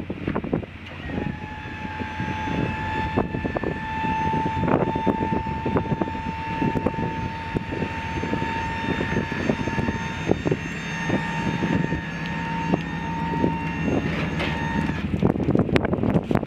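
1992 Chevy 3500 dually dump truck running, with a steady high-pitched whine that starts about a second in and stops shortly before the end, over wind buffeting the microphone and scattered clicks.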